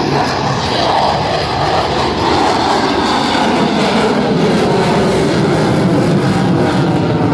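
Jet engine noise from a U.S. Air Force Thunderbirds F-16 fighter flying over, loud and steady, with its pitch slowly shifting.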